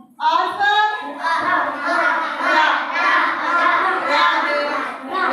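A class of children chanting letter sounds together in a sing-song unison, many young voices at once, after a brief pause at the start.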